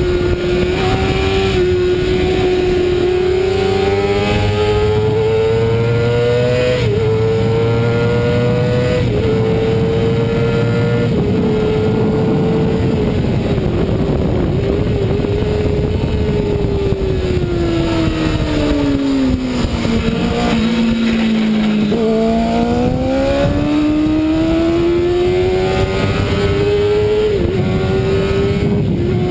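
Racing motorcycle engine at high revs, heard from onboard over loud wind rush. The pitch climbs and drops briefly at each upshift in the first dozen seconds, then falls steadily for several seconds as the bike slows. It climbs again from about three quarters of the way in, with another shift near the end.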